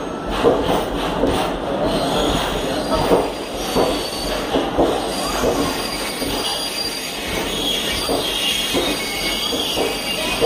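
ICF passenger coaches rolling past along the platform as the train comes in, wheels knocking over rail joints about once or twice a second. A faint high wheel-and-brake squeal comes and goes as the train slows on arrival.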